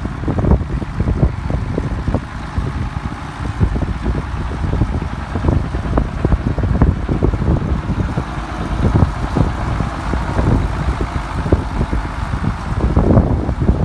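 1974 Case 970 tractor engine running steadily, with wind buffeting the microphone.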